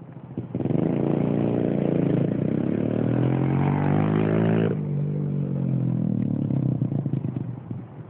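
Dirt bike engine revving hard as it pulls away, its pitch climbing for a few seconds. About halfway through the revs cut off abruptly to a lower running note, which drops again near the end.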